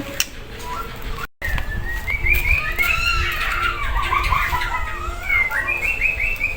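White-rumped shama (murai batu) singing a rapid, varied run of rising and falling notes, starting about a second and a half in.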